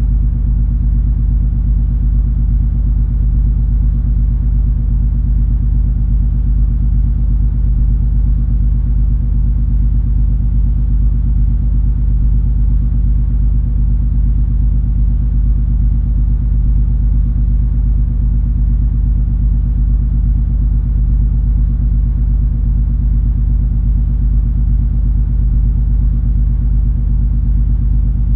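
Steady low rumble of the cruise ferry MS Color Magic under way, its engines and machinery giving a constant deep hum with a few low tones held in it and no change.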